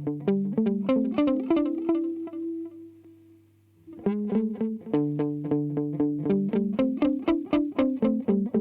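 Electric guitar played through a DemonFX Reverb & Delay Workstation pedal: quick picked notes, about five a second, with echoes trailing behind them. Partway through the playing stops on a held note that fades away, and the fast picking starts again about four seconds in.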